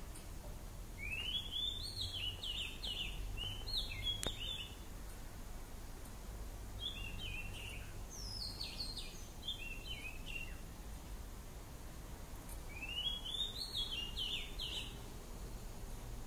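A songbird singing a short, quick phrase of chirping notes three times, a few seconds apart, over a steady low outdoor rumble.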